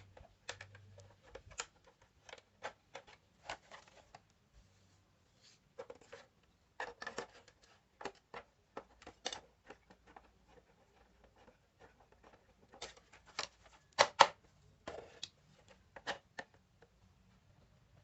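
Irregular clicks, taps and clatter of small hard objects being handled and set down, as when taking apart and working on an old radio. The loudest knocks come in a quick pair about two-thirds of the way through.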